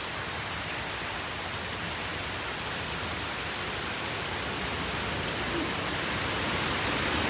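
Steady storm rain, growing slightly louder toward the end.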